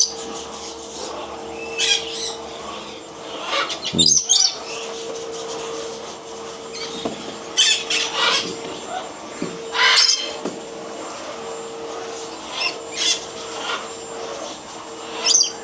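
Caged pet birds chirping and calling in short separate calls every second or two, over a steady low hum.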